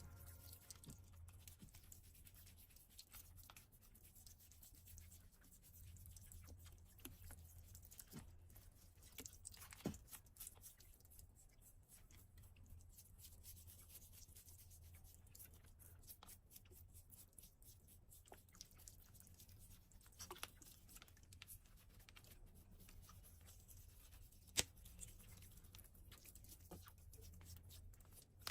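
Near silence: faint scraping and snipping of a cow's hoof being trimmed, with a couple of sharper clicks over a low steady hum.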